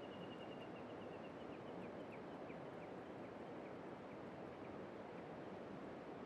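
Clear mountain river flowing steadily, a continuous rush of water. Over it, in the first three seconds or so, a run of high chirping calls, quick at first and then slowing and spacing out.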